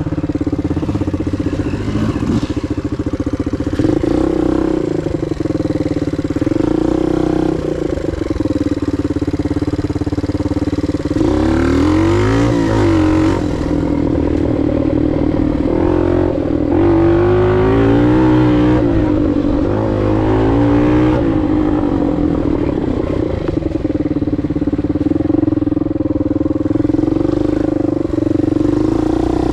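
Suzuki DR 125 dirt bike's single-cylinder four-stroke engine running steadily, with stretches of the throttle blipped up and down about a third of the way in and again past the middle.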